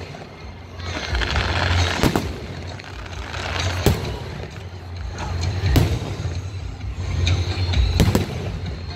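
Aerial firework shells bursting, four sharp bangs about two seconds apart, over music with a steady deep bass playing through loudspeakers.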